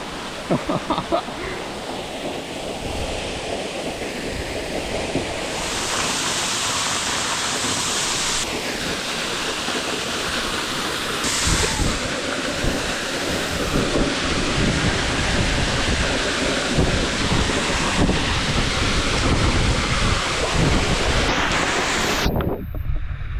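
Waterfall rushing close by, a dense steady roar of falling water that gets brighter and louder partway through, with low rumbling wind buffeting on the microphone.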